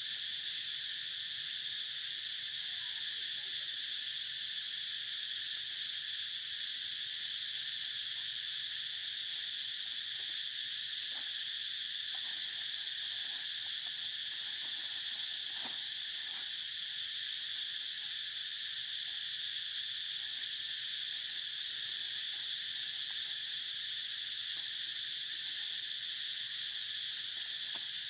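Insect chorus: a steady, high-pitched drone that holds unbroken throughout, with a few faint soft ticks around the middle.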